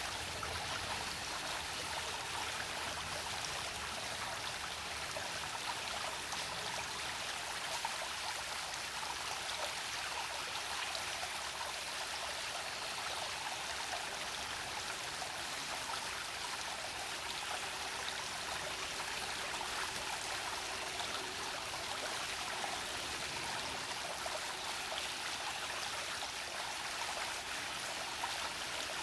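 A small shallow brook babbling and trickling over stones, a steady splashing water sound with small bright gurgles.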